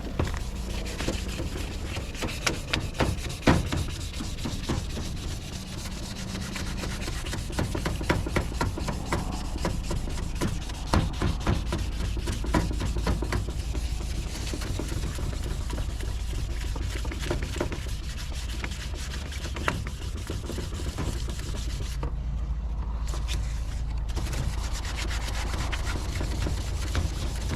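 Wet sanding of a plastic headlight lens: continuous scratchy rubbing of sandpaper on the lens, with scattered small clicks and knocks and a steady low rumble underneath.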